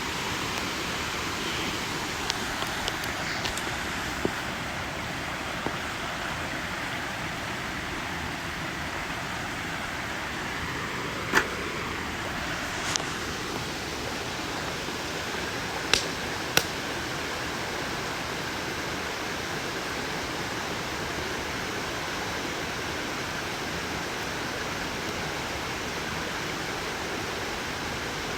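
Wood campfire burning with a steady hiss and scattered sharp crackling pops, which stop in the last third.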